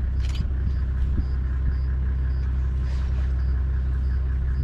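Safari jeep's engine idling steadily, a constant low rumble.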